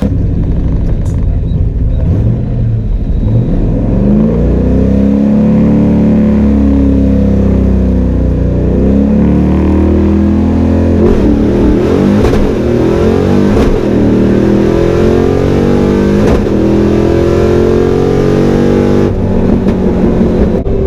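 Ford 5.0 V8 with bullet mufflers and the exhaust dumped behind the doors, run at full throttle on a drag pass: the engine revs climb in pitch through each gear, dropping at every shift of the manual transmission, then ease off near the end.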